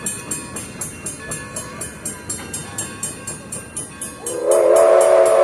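Steam locomotive working past at close range with a quick, even beat of about five strokes a second. About four seconds in, its steam whistle starts to blow loudly: a steady chord of several notes.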